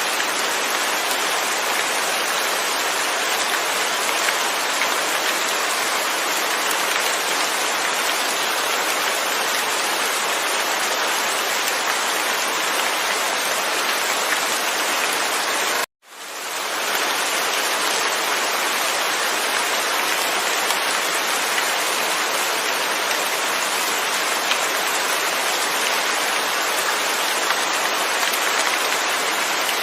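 Steady, dense rain falling, with no thunder. About halfway through it cuts out suddenly for a moment and fades back in.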